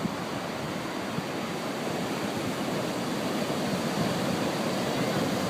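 Ocean surf washing steadily on the shore.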